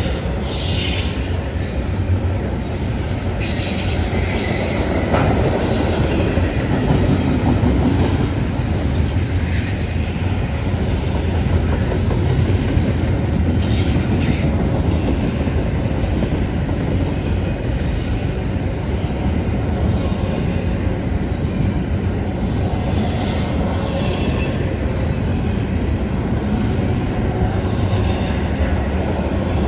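A train rolling past, steel wheels rumbling steadily on the rails, with high-pitched wheel squeal coming and going several times.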